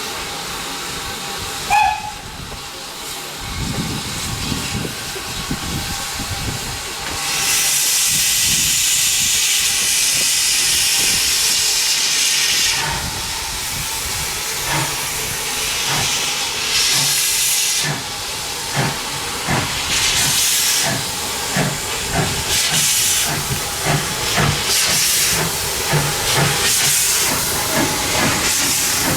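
Steam locomotive: a short whistle toot about two seconds in, then a long loud hiss of steam. From about halfway it starts away, with exhaust beats and bursts of hiss that come faster and faster.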